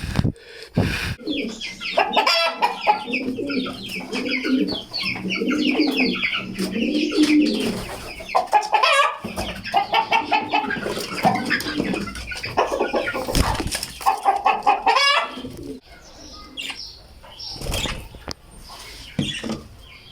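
Domestic birds calling over one another, low and high calls mixed, with occasional sharp flutters; the calling thins out over the last few seconds.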